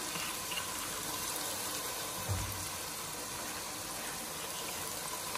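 Chicken pieces frying in oil in a pot, giving a steady sizzle, with one soft low thump a little after two seconds in.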